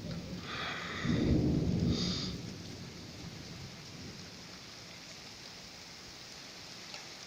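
Steady rain falling, with a low rumble of thunder about a second in that fades away over the next two seconds.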